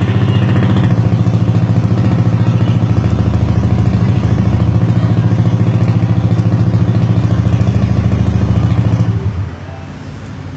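Motorcycle engine running at a steady speed with a fast even pulse, then dropping to a quieter, lower running note about nine seconds in.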